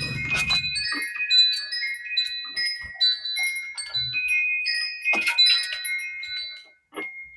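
Wind chimes ringing: several metal tones struck at irregular moments, each ringing on and overlapping the others, with a few short clicks among them.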